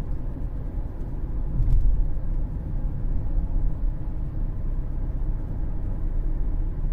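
Steady low road and drivetrain rumble inside the cabin of a 2013 Cadillac CTS 3.0 RWD cruising at highway speed, swelling louder about a second and a half in. The car is near the 45 mph speed where its driveshaft imbalance vibration shows up.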